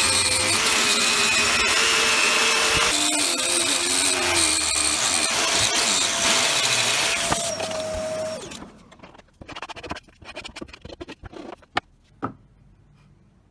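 A power tool running with a steady whine, stopping about eight seconds in, followed by a few scattered clicks and two sharp knocks.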